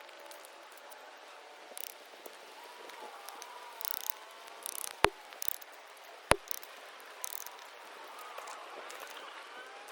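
Small twig fire burning in a pocket stove, crackling faintly, with two sharp loud pops a little over a second apart about halfway through.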